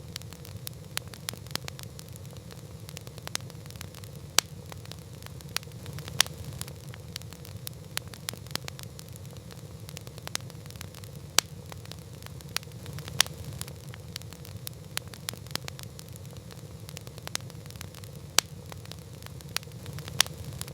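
Wood campfire crackling, with frequent irregular sharp pops, a few of them much louder, over a steady low rumble.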